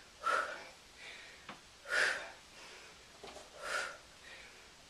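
A woman's sharp breaths during squats, three short puffs at an even pace about every second and a half to two seconds.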